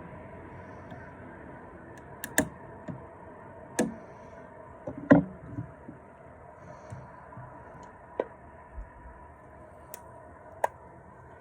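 A handful of separate sharp knocks and clicks, the loudest about five seconds in, over a steady low hum.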